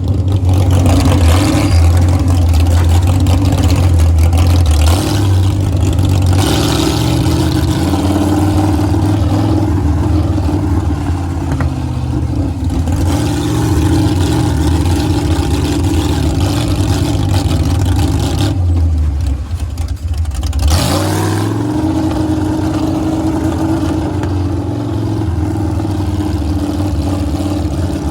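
A 650-horsepower monster truck engine running under load as the truck drives, its pitch climbing and falling as the throttle is worked. Just past the two-thirds mark it dips briefly, then climbs again.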